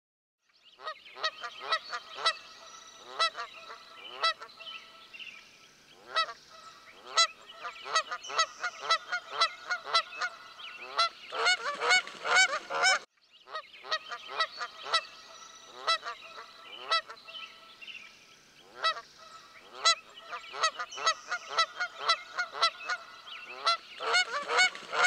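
A flock of Canada geese honking in flight, many short calls overlapping. The honking breaks off for a moment about halfway through, then starts again.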